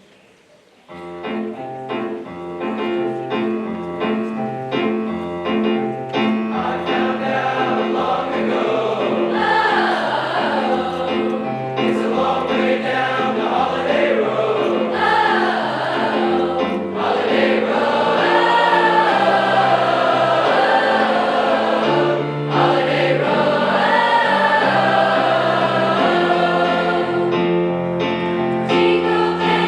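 High school choir singing with instrumental accompaniment. After about a second of quiet, the accompaniment starts with a steady pattern of repeated notes, and the voices join about six seconds in.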